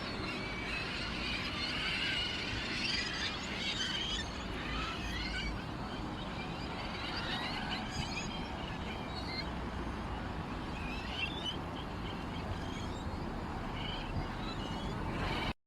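Small birds chirping: many short, quick twittering calls, busiest in the first few seconds and again about two-thirds of the way through, over a steady background hiss.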